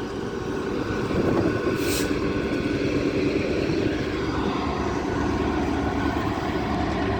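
GB Railfreight Class 66 diesel locomotive 66704 and its freight wagons passing through the station, a steady rumble of engine and wheels, with a brief higher-pitched screech about two seconds in.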